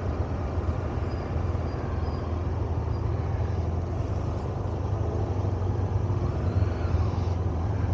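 Parallel-twin motorcycle engine running steadily at low revs, with a steady hum and a haze of road and wind noise.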